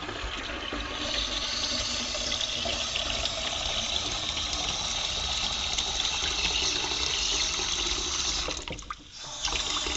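Kitchen tap running cold water in a steady stream, the flow dropping away briefly near the end and then running again.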